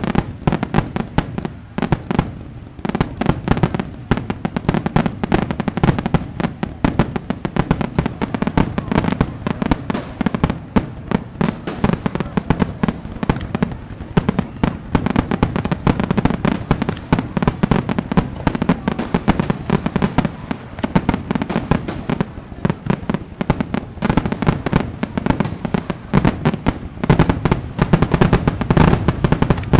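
Fireworks display: a dense, unbroken barrage of sharp bangs and crackling pops, many a second, over a low rumble.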